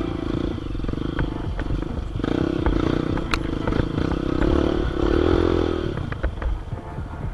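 Trail motorcycle engine running, its pitch swelling twice as it is revved, with scattered clicks and rattles.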